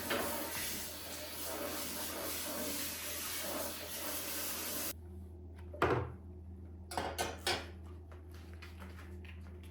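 A steady rushing hiss that cuts off suddenly about five seconds in, followed by a few light knocks and clatter of things being handled.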